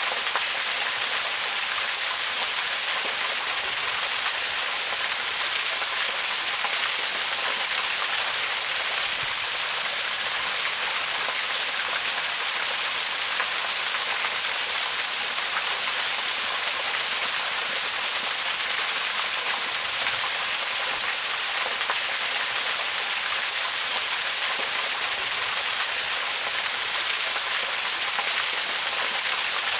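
Waterfall: a steady, unbroken rush of falling water, an even hiss that is strongest in the upper range with little low rumble.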